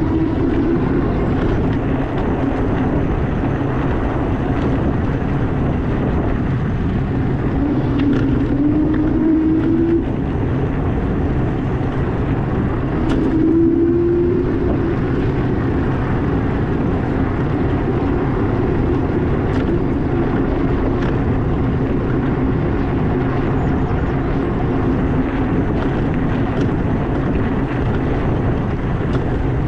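Steady wind and riding noise from an EP-2 Pro e-bike on the move, with a short whine that rises in pitch about 8 seconds in and again around 13 seconds.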